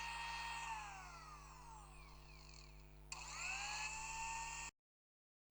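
Electric blender motor running with a high whine, then winding down about a second in. It starts up again a few seconds later with a rising whine and cuts off abruptly near the end.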